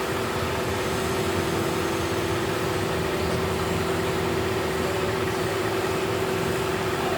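A steady mechanical hum: a constant drone held on one pitch over an even hiss.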